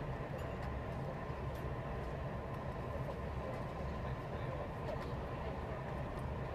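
Steady low rumble and hiss of a Thalys high-speed train running at speed, heard from inside a passenger coach.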